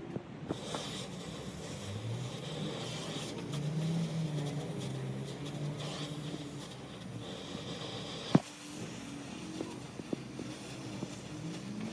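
A motor vehicle engine running, its pitch rising about two seconds in and then easing off, with a single sharp knock near the end.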